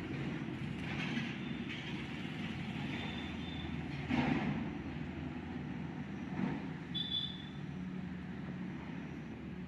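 Steady low rumble of passing vehicle traffic, swelling about four seconds in, with a brief high chirp about seven seconds in.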